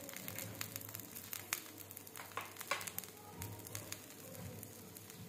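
Egg and shami kebab frying in oil on a flat iron tawa, sizzling with many scattered small pops and crackles.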